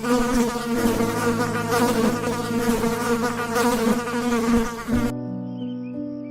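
A flying insect's wings buzzing steadily, stopping suddenly about five seconds in. Steady background music tones run underneath.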